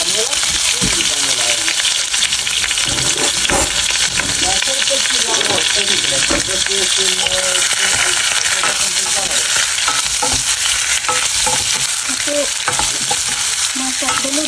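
Shrimp frying in hot oil in a small saucepan, with a steady sizzle. A utensil stirs in the pan, adding scattered clicks and scrapes.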